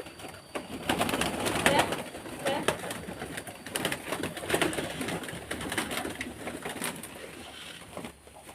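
Domestic pigeons cooing, with many quick clicks and rustles that are busiest from about one second in until near the end.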